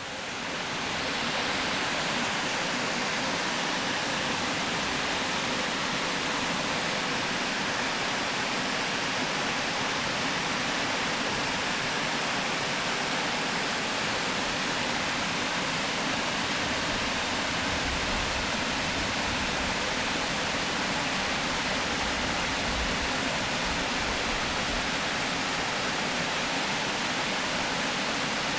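Water pouring over a river weir: a steady, dense rushing that fades in over about the first second and then holds even.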